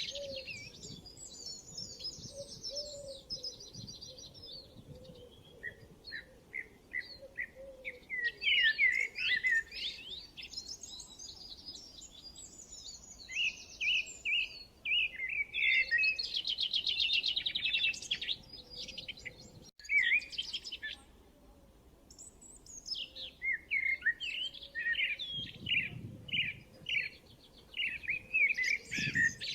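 Birds chirping and calling over one another in quick, varied chirps and fast trills. The sound cuts out for an instant about two-thirds through, then carries on.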